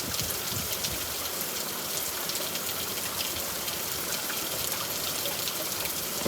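Heavy rain pouring down, a steady dense hiss full of tiny drop impacts.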